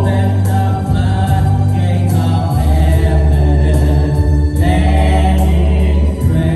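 Gospel music: voices singing together over sustained bass notes and a steady beat.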